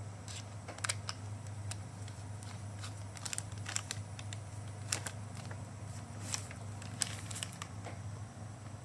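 Scattered light clicks and taps, a dozen or so at uneven intervals, over a steady low hum; no drill motor is running.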